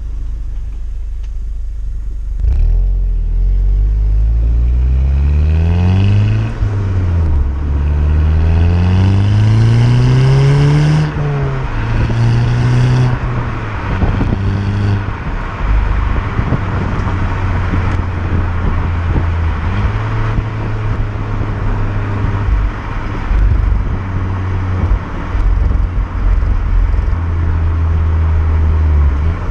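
Volkswagen Golf 6 GTI's turbocharged 2.0 TSI four-cylinder pulling hard through the gears of its six-speed manual: the engine note climbs, drops at an upshift about six seconds in, climbs again and drops at a second upshift about eleven seconds in, then settles into a steady cruise.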